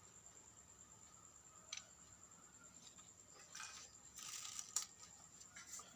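Faint handling noises: a sharp click, then a short scraping stretch that ends in a louder click, and another brief scrape near the end, over a steady faint high-pitched whine.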